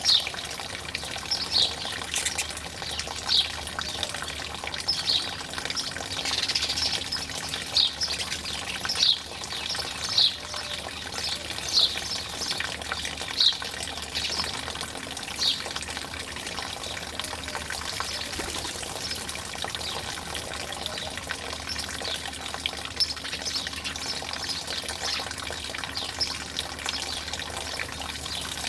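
Short, sharp bird calls repeated about once a second over a steady rush of running water; the calls thin out after about fifteen seconds.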